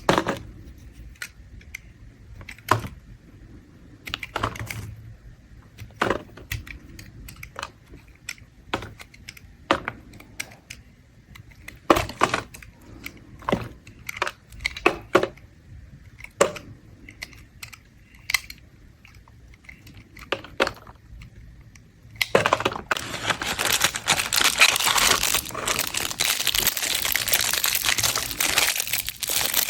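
Mint soap being worked with a blade: scattered sharp clicks and snaps of the blade cutting and tapping the soap, then, about three quarters of the way in, a dense continuous crackling scrape as the soap is shaved.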